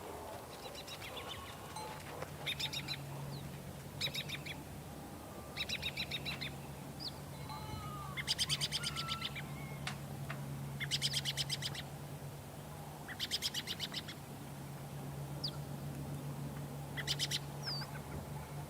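Bird calls: short, rapid trills repeated every couple of seconds, with a few thin whistled notes between them, over a steady low hum.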